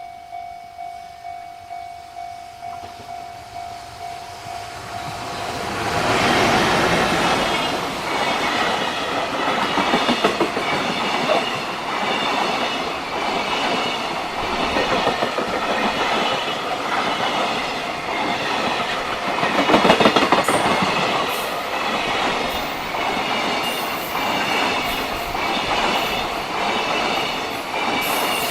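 A level-crossing warning bell rings about twice a second. About five seconds in, a long train comes onto the steel railway bridge and passes steadily, its wheels clattering over the rail joints. Thin high squeals from the wheels come near the end.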